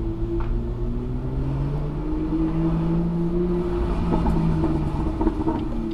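BMW M2's N55 turbocharged straight-six heard through its exhaust while driving at town speed, the engine note rising over the first two seconds and then holding steady, with some crackle near the end.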